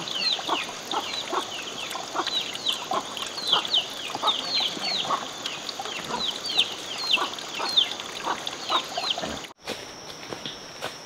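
Chickens calling: many short, high cheeps that fall in pitch, over lower clucks. About a second and a half before the end the sound cuts to a steady, high-pitched insect hum.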